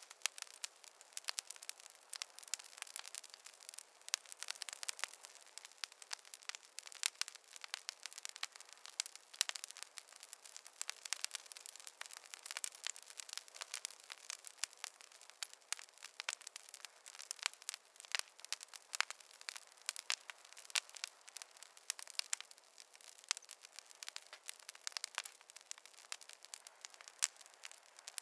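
Wood fire crackling: a dense, irregular stream of sharp pops and snaps over a faint hiss, with no low rumble.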